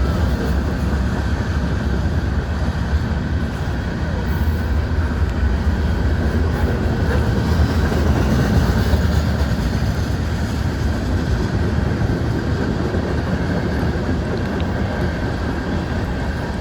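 Freight train rolling past at close range: a steady, continuous rumble and rattle of the cars' wheels on the rails.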